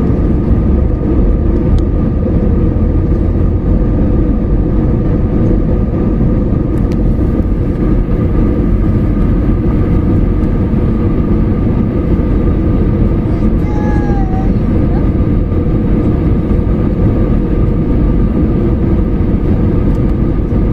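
Steady airliner cabin noise: the constant low rumble of jet engines and airflow heard from inside the plane around landing, with a few steady tones running through it.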